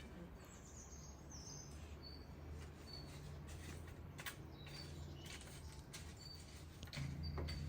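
Faint songbird chirping: a short downward-sweeping chirp near the start, then brief high chirps repeated every half second to a second. A low steady hum and a few light clicks sit underneath.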